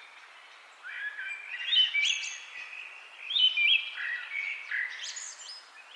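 Songbirds chirping, with short rising and falling phrases that overlap over a faint steady hiss. After a brief lull at the start, the calls begin about a second in.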